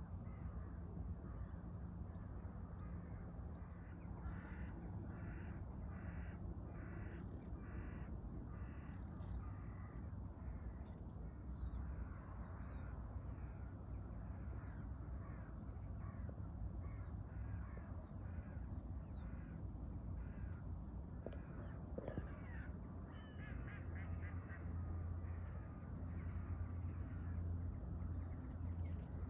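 Birds calling: a run of harsh, repeated calls about once every second, with a second bout later on and faint higher chirps scattered between them, over a steady low hum.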